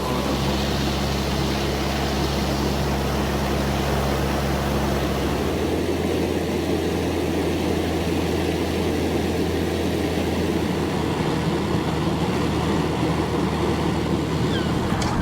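An engine running steadily with a low droning hum under a broad rushing noise; the hum drops to a lower note about five to six seconds in.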